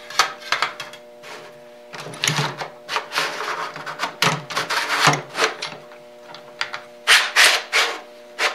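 Thin sheet-metal dust cover slides being handled and worked on their bracket: irregular metal clicks and scraping rubs, loudest near the end, over a faint steady hum.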